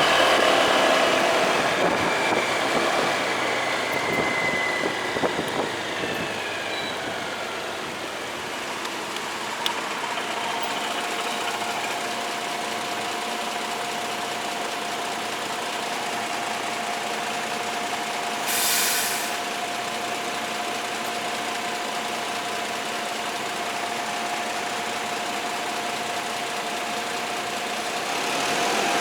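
Motorcycle engine running on the move, with a few falling pitches in the first seconds and then a steady hum from about a third of the way in. A short hiss comes just under two-thirds of the way through.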